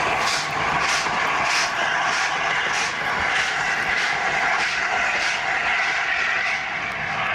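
LNER A4 three-cylinder Pacific steam locomotive working slowly, its exhaust beats coming evenly about every half second over a steady hiss of steam.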